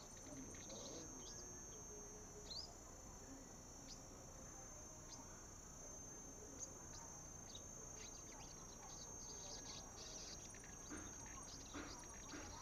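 Young sunbirds practising song: short, high chirps and squeaks, scattered and thickest near the end, over a steady high-pitched insect drone. Faint throughout.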